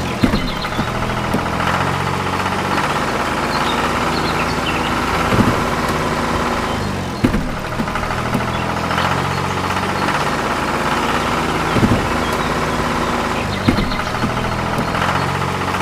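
Small motor of a miniature DIY toy tractor running steadily with a rattling hum, its pitch shifting every couple of seconds, with a few sharp knocks scattered through.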